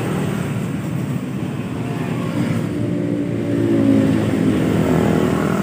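Motor vehicle engine running steadily, with another vehicle briefly swelling louder about three seconds in.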